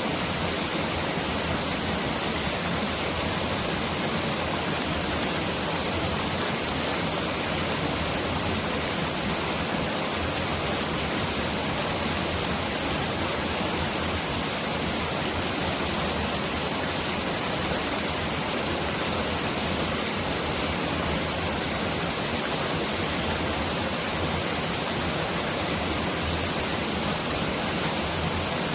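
Mountain valley stream rushing: a steady, dense sound of running water that, heard with eyes closed, is like heavy rain pouring down.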